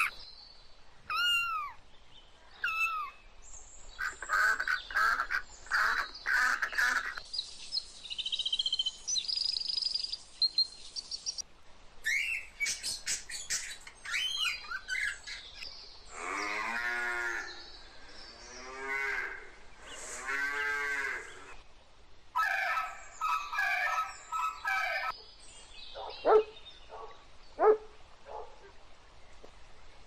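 Cattle mooing: three long moos one after another around the middle, among a run of other shorter animal calls and clicks earlier and later.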